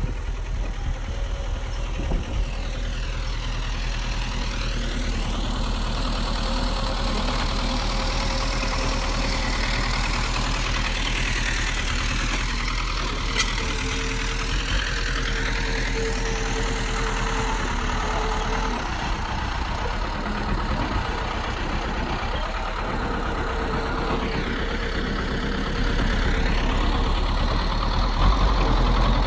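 Bulldozer's heavy diesel engine running steadily, growing louder near the end.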